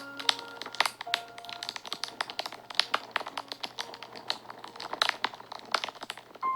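Wood fire crackling, with rapid irregular pops and snaps. A few soft, sparse notes of background music are held underneath.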